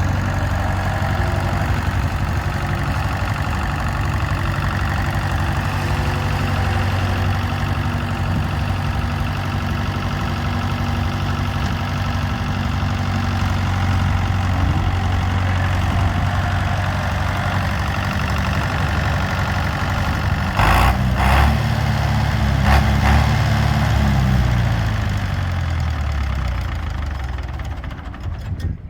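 David Brown 950 diesel tractor engine idling steadily. About two-thirds of the way in there are a few sharp knocks, and the revs rise briefly, then sag away steadily toward the end.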